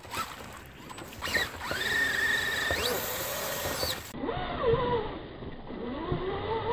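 Whine of a Traxxas Rustler VXL RC truck's brushless electric motor under throttle. The pitch rises and holds, climbs again and cuts off about four seconds in, then a lower-pitched whine rises and settles into a steady tone.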